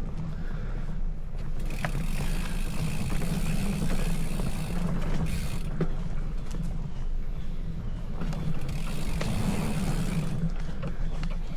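Bicycle on the move: tyre and drivetrain noise with a few clicks over a steady low rumble of wind on the microphone. A rushing hiss swells twice.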